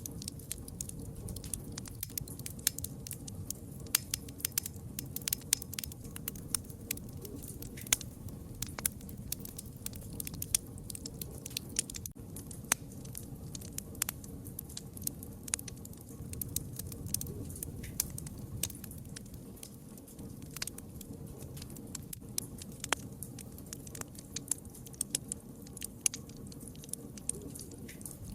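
Campfire crackling: irregular sharp pops and snaps over a low, steady rumble of the flames.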